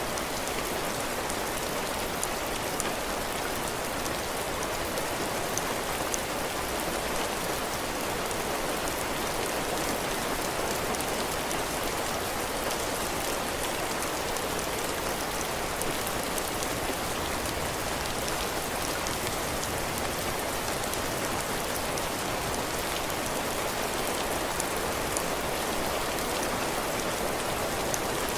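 Heavy rain falling steadily on a cabin porch, drops pattering on the roof and floor, with faint scattered individual drop ticks.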